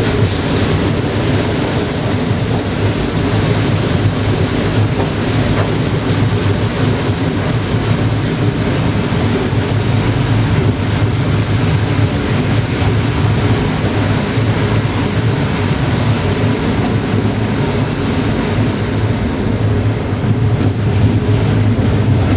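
Passenger train running: a steady rumble of wheels on the rails, with a high wheel squeal heard briefly about two seconds in and again, longer, from about five to ten seconds.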